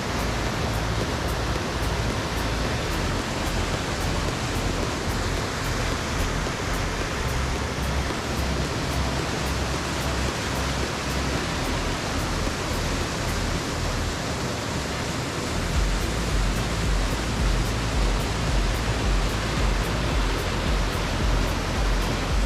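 Waterfall rushing: a steady, even wash of falling water, with a low rumble underneath that grows heavier about two-thirds of the way in.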